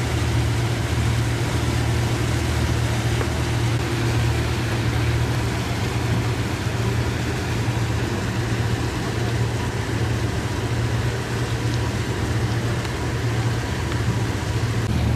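A boat's engine running steadily with a low, even hum, with a haze of water and wind noise over it.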